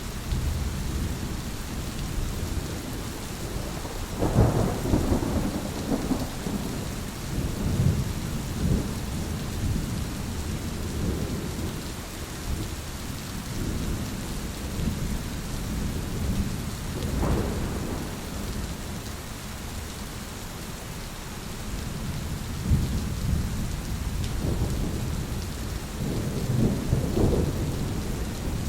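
Steady rain with rolling thunder: low rumbles swell and fade several times, the strongest about four seconds in, again near the middle and late on, over a constant rain hiss.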